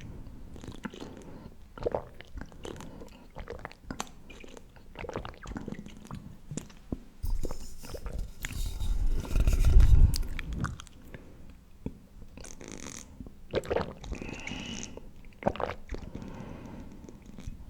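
Close-up, irregular crunching and clicking that sounds like chewing, with a louder low rumble about halfway through and a few short hissy scrapes after it.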